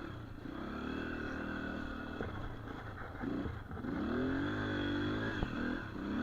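Dirt bike engine running and being throttled up and down, its pitch climbing about three and a half seconds in and holding higher.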